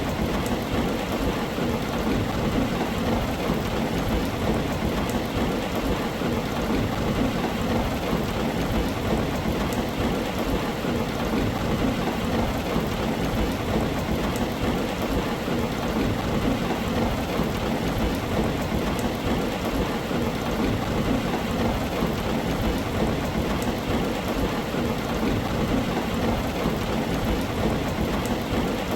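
Steady, heavy rain drumming on a tin roof, a dense, even patter with no single strike standing out.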